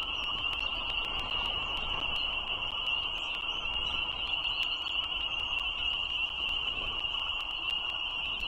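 A frog chorus, a steady unbroken high-pitched trilling, with a lower rushing haze and scattered faint clicks.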